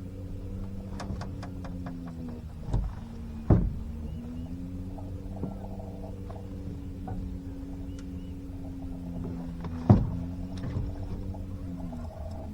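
Boat motor humming steadily, its pitch dipping and rising a few times, with a cluster of light clicks about a second in and several sharp knocks; the loudest knock comes about ten seconds in.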